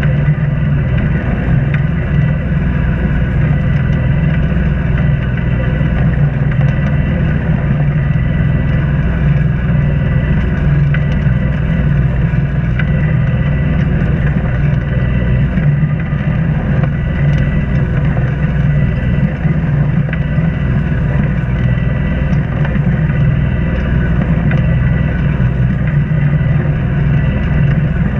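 Sailboat's inboard engine running steadily at constant speed while motoring under power, a low, even drone.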